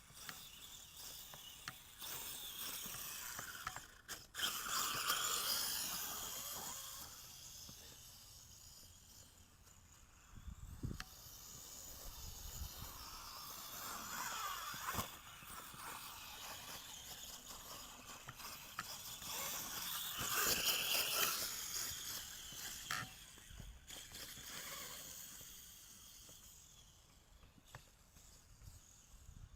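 Axial SMT10-based RC monster truck driving, its electric motor whining up and down in pitch with the throttle. It is loudest in two spells, about five and twenty seconds in.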